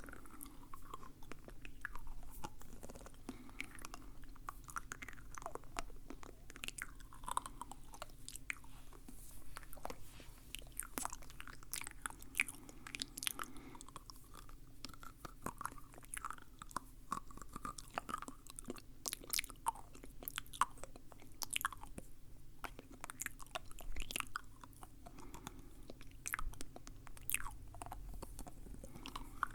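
Close-up wet mouth sounds: a dense, irregular run of small clicks and smacks from lips and tongue, like chewing.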